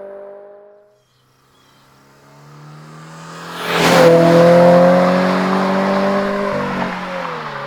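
2022 GR86/BRZ's 2.4-litre flat-four running through a Borla S-Type cat-back exhaust as the car approaches and drives past. The exhaust note builds from near silence, is loudest about four seconds in with a short rush as the car goes by, then holds a steady note that eases off and drops slightly in pitch near the end.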